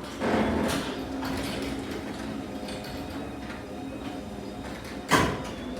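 Electric garage door opener running as a new sectional garage door travels along its tracks, a steady mechanical hum. A sharp clunk comes about five seconds in.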